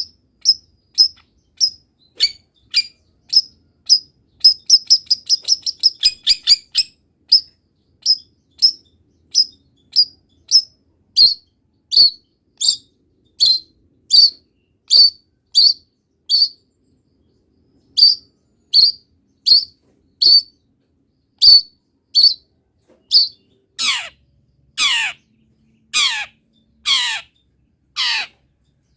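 Long-tailed shrike singing a song full of imitated wild-bird calls: a long series of short high chirps, about one and a half a second, with a quick run of rapid notes about five seconds in. Near the end the notes change to longer, harsh calls that fall steeply in pitch, about one a second.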